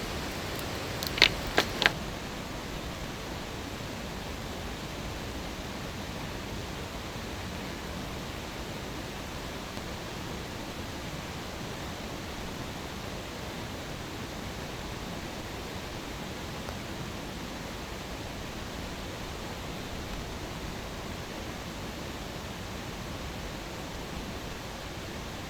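Wood campfire burning, with a few sharp pops in the first couple of seconds, then a steady even hiss.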